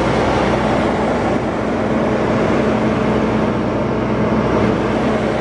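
Mercedes-Benz S65 AMG's twin-turbo V12 idling steadily.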